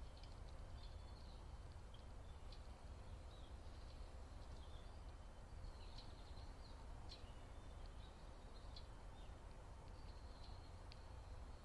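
Faint, scattered high chirps and ticks of small birds, spread irregularly over a steady low background rumble.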